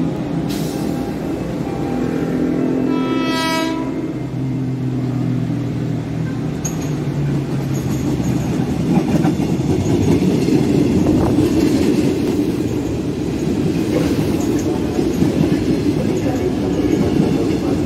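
A commuter electric train approaching and passing close by: its horn sounds in the first few seconds, then a steady rush and clatter of wheels on rails takes over as the carriages go past, a little louder in the second half.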